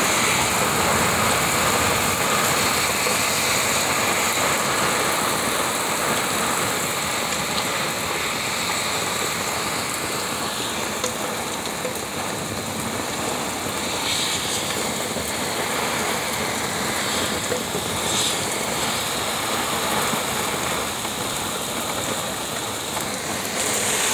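Heavy downpour: a steady, even rush of rain.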